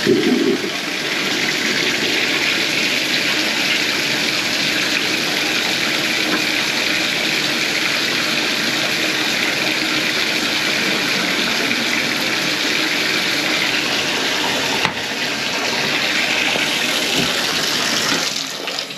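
Toilet refilling after a flush: water runs steadily into the tank and bowl through the fill valve, then shuts off about eighteen seconds in.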